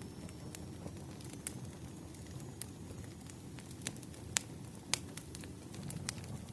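Wood fire crackling, with a steady low rumble and scattered sharp pops and snaps, the loudest two coming a little past the middle.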